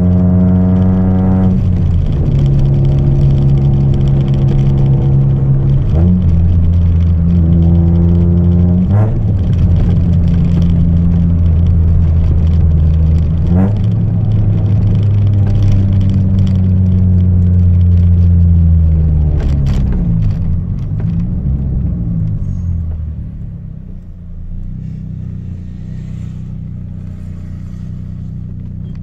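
Chevrolet Celta 1.0 four-cylinder engine breathing through a 4-into-1 header and a straight two-inch exhaust with no mufflers, running loud at steady revs with several sudden changes in pitch. It slows down about twenty seconds in and settles to a lower, quieter idle-like note, picking up again right at the end.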